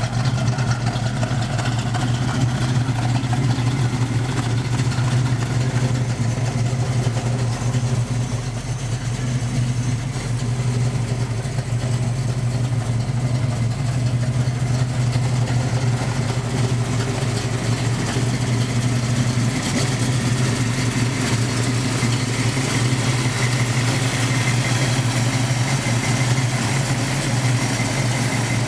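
1973 Plymouth Barracuda's 340 V8 idling steadily.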